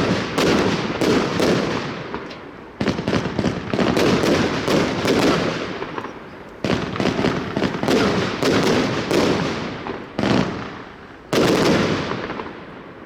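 Gaoo Amsterdam firework battery firing rapid volleys of sharp shots and bursts, in waves that start afresh every few seconds and fade in between; the last wave comes near the end and dies away.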